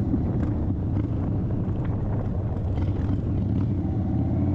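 2023 Indian Chief Bobber's air-cooled Thunderstroke 116 V-twin running steadily at cruising speed, heard through an aftermarket exhaust.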